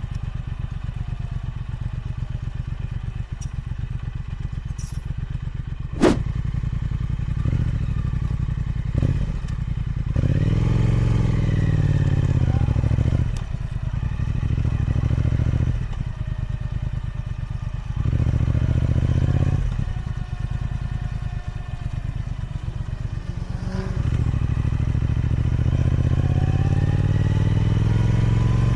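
Triumph Speed Twin 1200's 1200cc parallel-twin engine on its stock exhaust, under way: it pulls with rising pitch several times and eases off in between. There is one sharp click about six seconds in.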